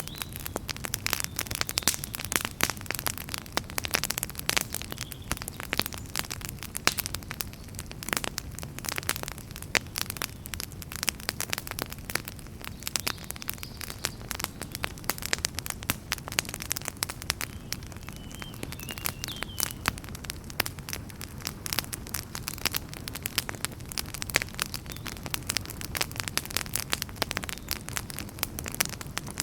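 Wood fire burning in a fireplace, crackling with dense, irregular snaps and pops over a steady low rumble.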